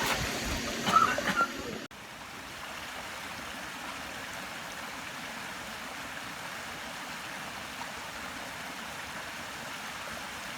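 Steady rushing of running water, even and unbroken, after a brief trail of speech that ends in a sudden cut about two seconds in.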